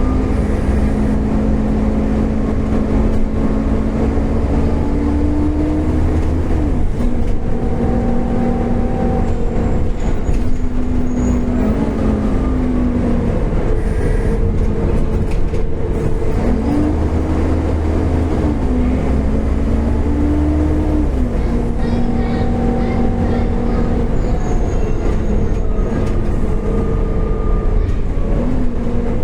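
Volvo B7TL double-decker bus running under a low engine rumble with a hoover-like drivetrain whine that climbs in pitch and then drops several times, as it accelerates through its gears and eases off in stop-start running.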